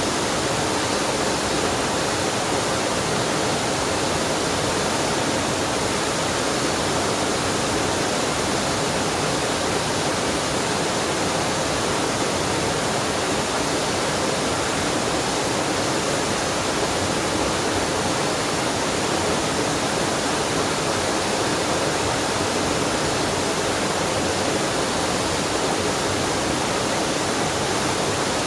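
Waterfall and mountain stream, water rushing in a steady, unbroken roar.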